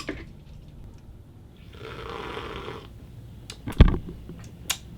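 A person slurping a sip of iced coffee for about a second, then a sharp knock, the loudest sound, a little later, with a lighter click near the end.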